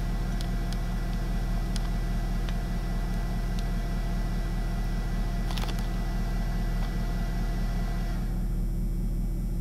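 Vehicle engine idling with a steady low hum. A faint high whine stops about eight seconds in, and there is a single click about halfway through.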